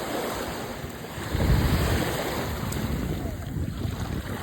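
Ocean surf washing on the shore, with wind rumbling on the microphone; the sound swells sharply about a second and a half in.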